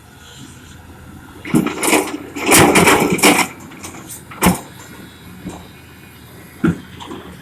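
Excavator at work: a steady engine noise under irregular loud clatter and knocks, with the sharpest knock about halfway through.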